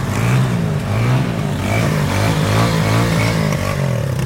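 Off-road vehicle engine revving hard, the throttle worked up and down so its pitch rises and falls about once a second.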